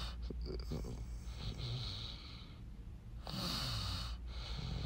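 A man breathing audibly close to the microphone: two long breaths, about a second each, over a steady low hum.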